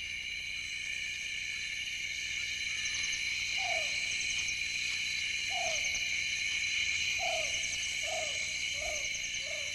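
Night-time tropical rainforest chorus: a steady high drone of insects, with a series of six short, falling calls from an animal, starting about three and a half seconds in and coming closer together towards the end.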